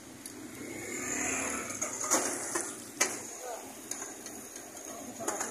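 Parathas frying on a large griddle (tawa) with a steady sizzle that grows louder about a second in, and a few sharp clicks of metal tongs against the pan.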